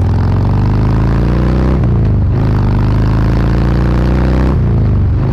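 Harley-Davidson V-twin motorcycle engine accelerating hard. Its pitch climbs and drops at gear changes, about two seconds in and again near the end.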